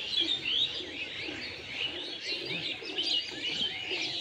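Small birds chirping continuously, many short, quick, high chirps overlapping one another.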